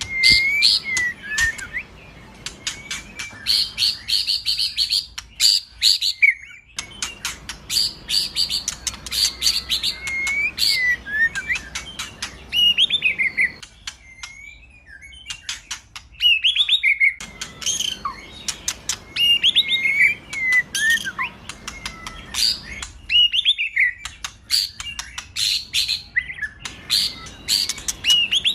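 White-rumped shama (murai batu) singing a varied song: rapid dry clicking rattles mixed with whistled notes that slide up and down, broken by a few short pauses.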